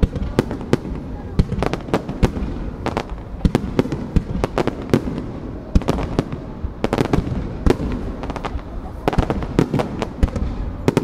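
Aerial firework shells bursting overhead at close range, many sharp bangs in quick, irregular succession over a continuous low rumble.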